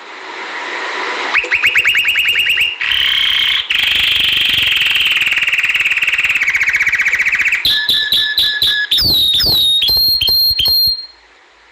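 Domestic canary singing: fast trilled rolls of rapidly repeated notes, a long rolling trill in the middle, then quick falling whistled notes near the end before the song stops.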